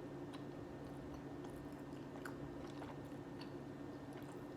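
Faint chewing of chicken McNuggets, with scattered soft mouth clicks, over a steady low hum.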